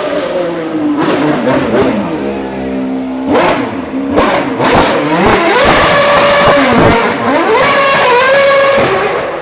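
Formula One car engine revving hard: the pitch drops to a low note, then climbs sharply and surges up and down several times, held high near the end before it fades.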